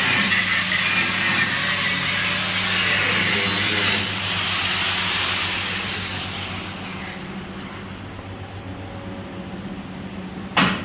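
A power tool running with a steady noisy whir and a low hum, then slowly winding down over the second half, its pitch falling.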